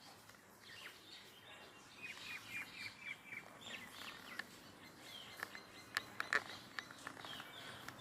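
Several birds chirping and calling, with a quick run of five or six repeated notes in the first half. A few sharp clicks come in the second half.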